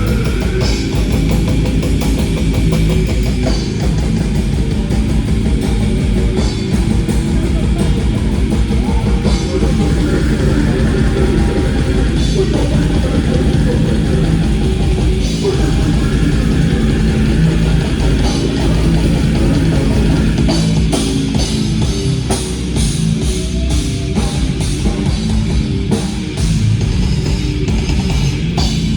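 A heavy metal band playing loud, live, with drum kit and guitars.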